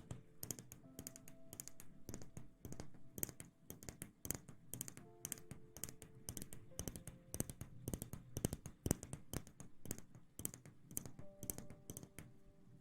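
Rapid, irregular crisp clicks and taps, an ASMR trigger sound, over soft background music of held notes.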